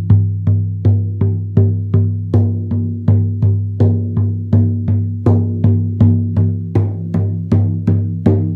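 Handmade goat-skin frame drum struck steadily with a stiff, thick leather beater, about two strokes a second. Each stroke opens with a sharp attack and rings into a deep, sustained boom that carries between strokes.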